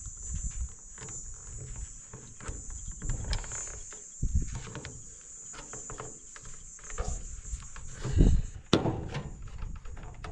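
Steady high-pitched insect chirring, with scattered clicks, knocks and low rumbling from handling and work close by; the loudest thump comes about eight seconds in.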